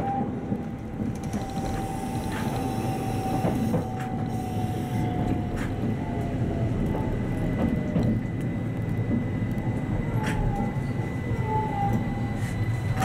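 Keihan 800-series electric train running on rails, heard from the cab: a steady rumble with scattered clacks and a motor whine that slowly falls in pitch as the train slows toward its next stop.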